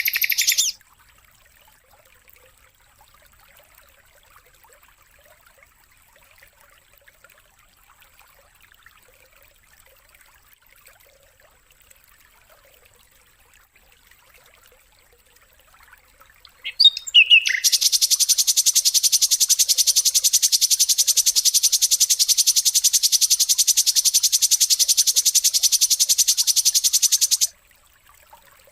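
Songbird-training (masteran) recording: a long pause of faint hiss, then a few chirps and a loud, very rapid buzzing trill lasting about ten seconds that cuts off suddenly, followed by more chirps near the end.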